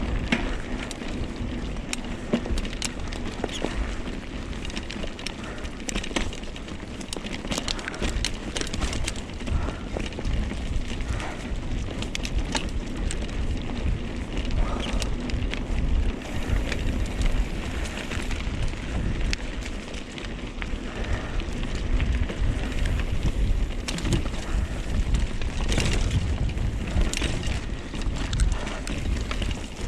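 Mountain bike riding down a dirt trail: tyres rolling over dirt and rocks, the bike rattling and clattering over bumps, and wind buffeting the microphone in a steady rumble.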